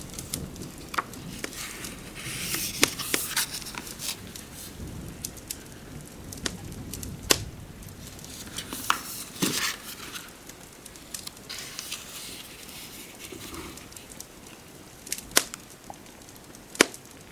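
Crackling fireplace with scattered sharp pops of burning wood over a low steady hiss, and a few softer rustles in between.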